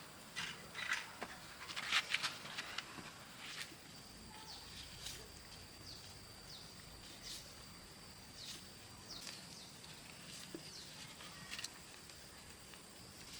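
Outdoor rural ambience: short, high, falling chirps of birds scattered through, over a steady high insect drone. A cluster of clicks and knocks, like footsteps or handling, comes in the first few seconds.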